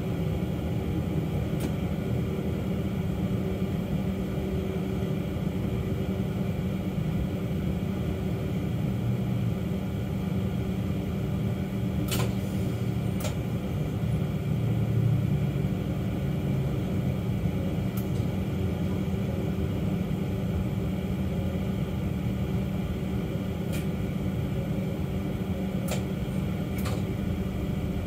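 Electric suburban train heard from inside as it pulls away from a station: a steady hum and rumble that swells briefly about halfway through, with a few sharp clicks scattered throughout.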